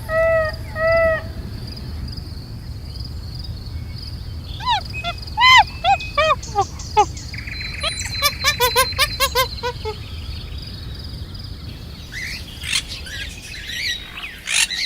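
Birds calling in series of short, arched chirping notes, first a short run, then a falling run and a quick run, with busier chatter near the end, over a steady high-pitched insect hum.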